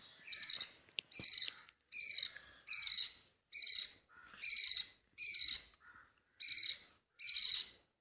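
A budgie chick's food-begging calls while being hand-fed formula: a short, high chirp repeated steadily about every 0.8 seconds. A sharp click about a second in.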